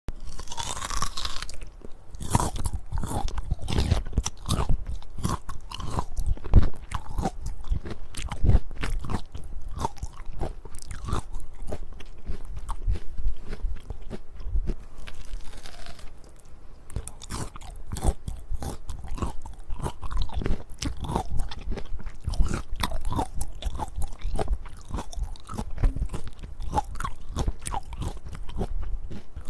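Close-miked biting and chewing of peaches, a steady run of bites and chews.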